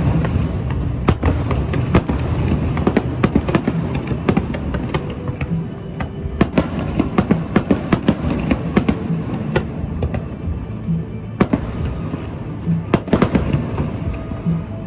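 Fireworks going off in rapid succession, many sharp cracks and pops, over background music with a steady low beat.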